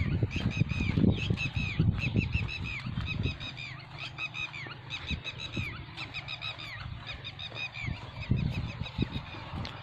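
Many birds chirping continuously, a busy flock of short down-curving chirps overlapping. Low thumps and rumble come under them in the first few seconds and again near the end.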